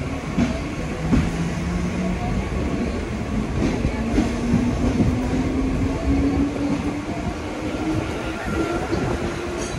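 Mumbai suburban electric local train running, its motor whine climbing steadily in pitch as the train picks up speed, with scattered knocks of wheels over the rail joints.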